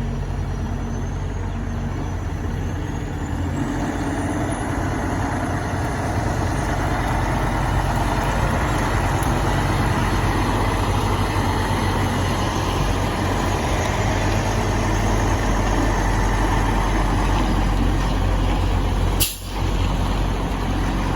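Large truck's engine running with a steady low rumble and broad road noise, growing slightly louder. A sharp click with a brief dip in the sound near the end.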